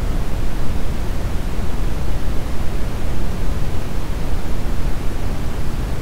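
Brown noise: a steady, even rushing hiss, weighted heavily toward the deep low end, with no tones or events.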